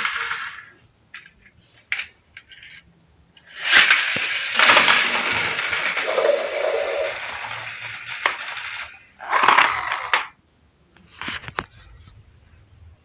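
Small hard objects clinking and rattling: a few sharp clicks, then a rattling stretch lasting about five seconds, then two shorter bursts.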